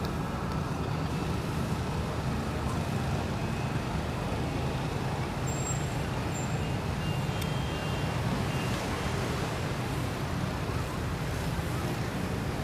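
Steady low rumble of distant road traffic heard from high above, with no single vehicle standing out.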